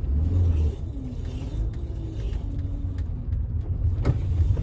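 VW Westfalia camper van's rear water-cooled flat-four engine running while the van pulls away, heard from inside the cab. It is louder for the first second, then eases to a lower rumble.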